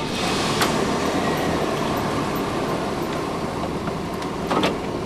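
Steady rumbling road and engine noise inside a moving vehicle, with a couple of short knocks.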